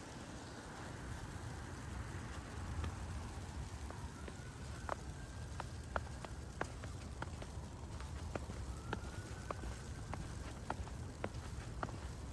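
A steady low rumble with a regular ticking, just under two ticks a second, that starts about four seconds in.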